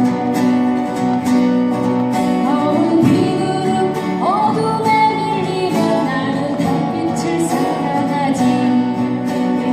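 Acoustic guitar-led band music of a folk song, played in a passage between sung lines.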